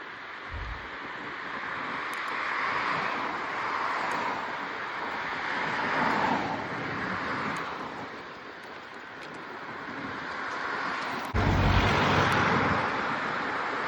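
Wind rushing past the microphone of a moving bicycle, swelling and easing several times, with a sudden harder gust buffeting the microphone near the end.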